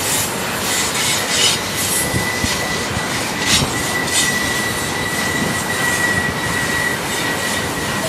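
Double-stack intermodal freight cars rolling past: a steady rumble of steel wheels on rail, with a thin, steady high-pitched wheel squeal from about a second in and a few sharp clicks from the wheels and couplers.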